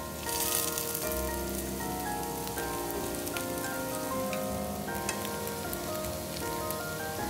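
Food sizzling in hot oil in a pan, with a crackling hiss that swells suddenly a moment in and carries on. Background music plays throughout.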